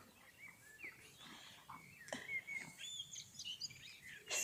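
Small birds chirping and twittering, a string of short high calls and pitch glides. Near the end a short, loud burst of noise close to the microphone stands out above them.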